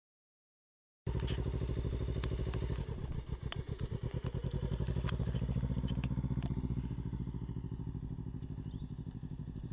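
Kawasaki Ninja 300 parallel-twin engine running, cutting in abruptly about a second in. The beat slows and becomes uneven for about a second, then picks up and runs steadily with a slight rise in pitch near the end, with a few light clicks over it.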